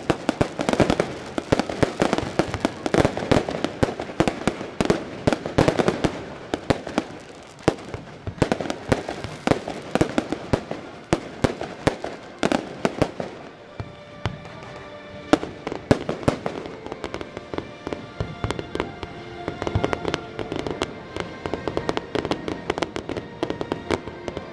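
Aerial fireworks bursting in quick succession: a dense run of sharp bangs and crackle. From about halfway, music comes in under the explosions.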